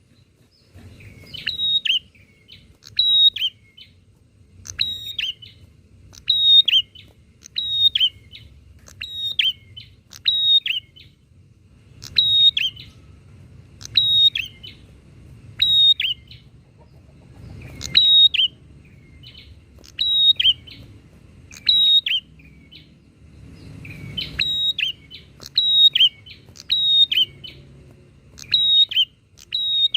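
Prinia (prenjak) calling: short, sharp chirping phrases repeated about once a second, with a few brief pauses between runs.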